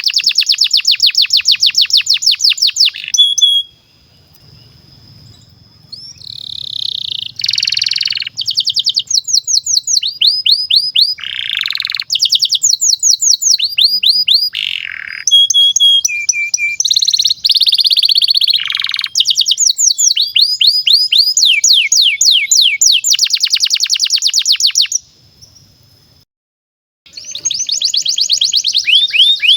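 Domestic canary singing a long song of rapid trills and rolls, phrases of fast repeated notes changing speed from one to the next. It pauses briefly about four seconds in, and again shortly before the end, then resumes.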